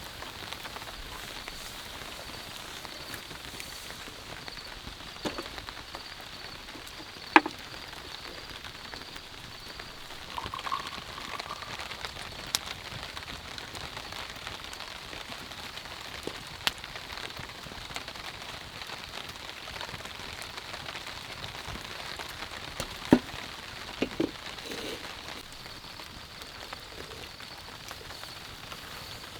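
Steady rain falling, with a few louder single drops or taps striking now and then, the sharpest about seven seconds in and again about twenty-three seconds in.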